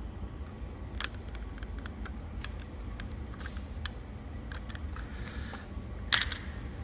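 Garage door opener running: a steady low hum with a string of irregular sharp clicks, the loudest about six seconds in.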